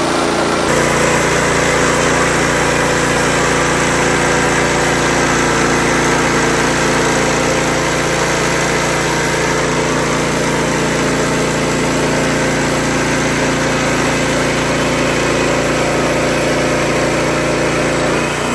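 Wood-Mizer LX55 portable sawmill's engine running steadily, with a shift in the sound about a second in and again near the end.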